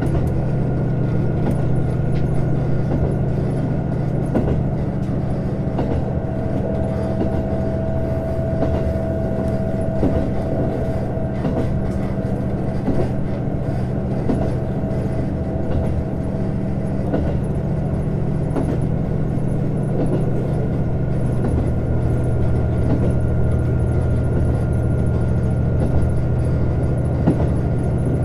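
JR Hokkaido KiHa 150 diesel railcar running along the line: its diesel engine runs steadily under the rumble of wheels on rail, with scattered faint clicks. A thin whine stands out more clearly from about six to fourteen seconds in.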